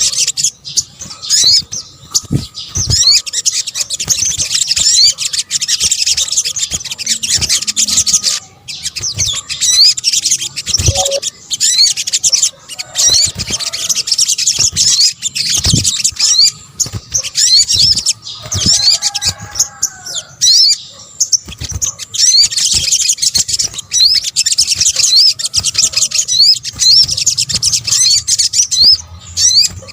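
Sogok ontong, a small bird of the sunbird family, singing a rapid high-pitched chirping song: dense runs of short, quick notes broken by a few brief pauses.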